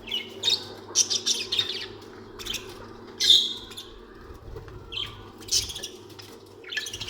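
Budgerigars chirping and chattering in short, irregular bursts, over a steady low hum.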